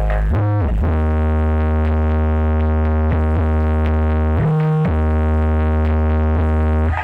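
Bass-heavy music played through a sound system with two subwoofers during a sound check: a long, loud, deep bass note held steady, shifting pitch briefly about half a second in and again around four and a half seconds in.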